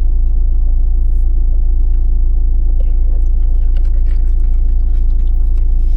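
Vehicle engine running steadily, a constant low drone heard from inside the cab, with a few faint light clicks over it.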